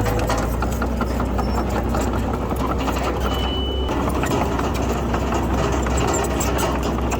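Diesel engine of a bulldozer running steadily, with a dense clatter of small clicks and rattles throughout. A brief high-pitched tone sounds about three seconds in.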